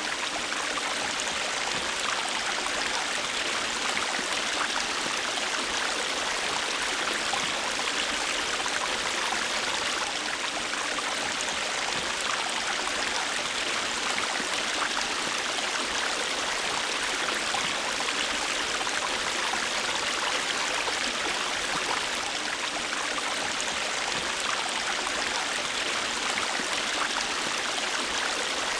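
River water running over rocks: a steady rushing with fine splashing, unchanging throughout.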